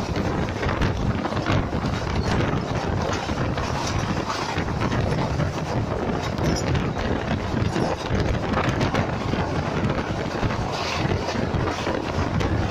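Wind blasting steadily on the microphone at a moving train's window, over the low running rumble of the train.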